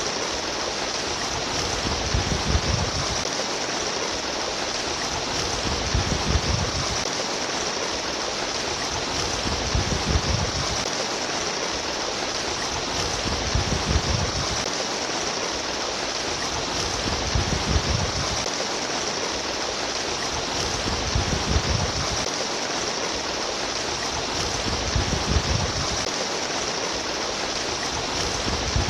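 Babbling water running steadily, as from a stream, with a low rumbling swell that comes back about every four seconds.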